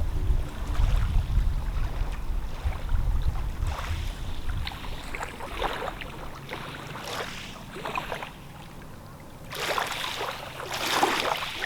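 Wind rumbling on the microphone, with scattered faint crackles and two louder rushing gusts near the end.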